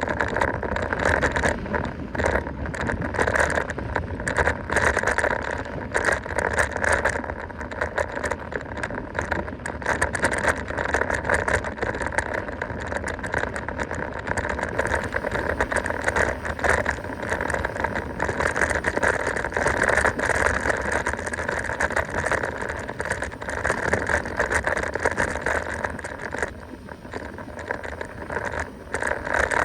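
Mountain bike running fast downhill on a dirt trail: tyres rolling over the ground with a continuous rattle and clatter from the bike over bumps.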